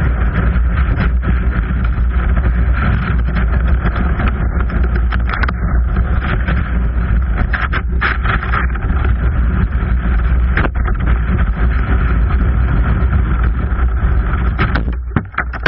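Fast whitewater rushing down a steep slide: a loud, steady roar with a deep rumble underneath, easing off about fifteen seconds in.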